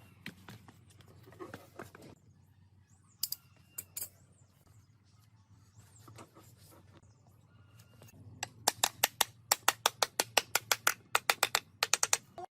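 A fast run of about twenty sharp taps or clicks, roughly six a second, starting about two-thirds of the way in and stopping just before the end, over a low steady hum.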